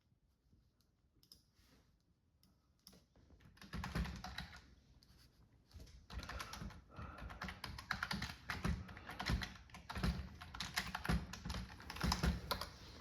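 A quick, irregular run of light clicks and taps, like typing or small hard objects being handled, starting about four seconds in after a near-quiet stretch.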